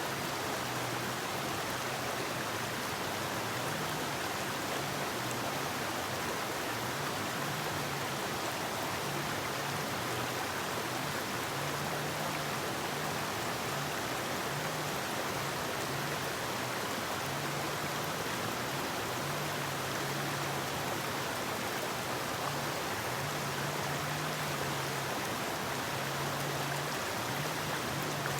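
A forest river flowing: steady rushing water with no breaks, and a faint low tone that comes and goes underneath.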